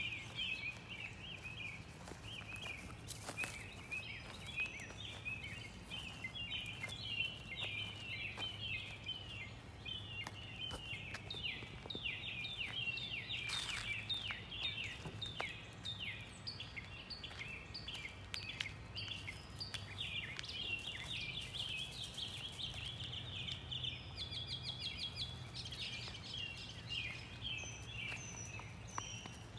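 Birds chirping and calling continuously in a dense, overlapping chorus, over a steady low background hum.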